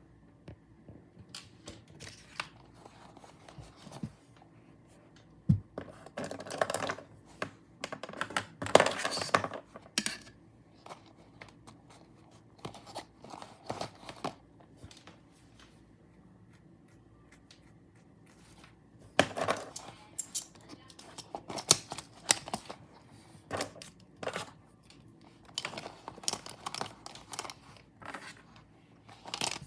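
Pencils, pens and other stationery being handled while a pencil case is sorted: irregular clicks, taps and short rustles, with a pause of a few seconds about halfway through.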